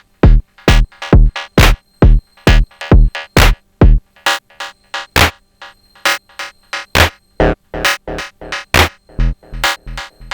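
Sonic Potions LXR-02 digital drum machine playing a techno groove: a kick about twice a second under sharp percussion hits. About four seconds in the kick drops out to only occasional hits, leaving mostly the higher percussion pattern running.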